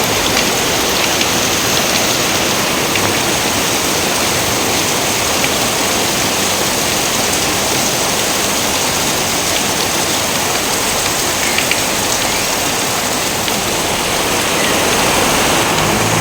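Steady heavy rain falling, a constant wash with scattered individual drops ticking through it.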